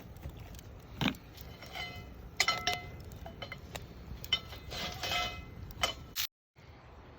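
Metal objects knocking and clinking together in a string of short strikes, several of them ringing briefly. The sound cuts out for a moment near the end.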